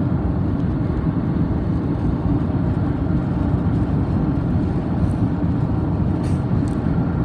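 A car driving, a steady low rumble of tyres and engine, with a couple of faint clicks near the end.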